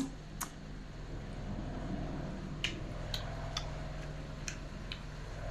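A person chewing hot food close to the microphone: a string of small, sharp mouth clicks and lip smacks, irregularly spaced, over a faint steady hum.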